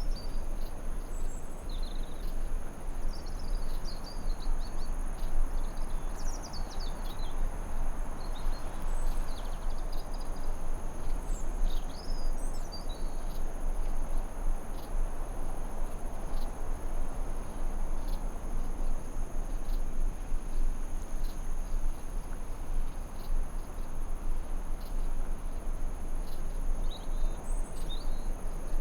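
Forest ambience: a steady hiss of noise under a continuous high-pitched insect trill, with short bird chirps scattered throughout.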